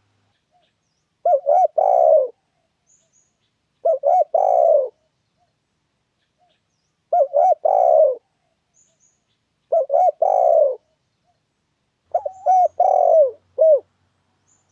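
Spotted dove (tekukur) cooing in five phrases, about one every two and a half seconds, each a couple of short notes run into a longer falling coo. This is the call used as a lure to draw wild tekukur into traps.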